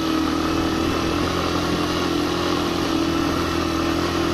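Suzuki GN125's single-cylinder four-stroke engine pulling steadily in first gear up a steep dirt climb with a passenger aboard, holding a nearly constant engine speed under load.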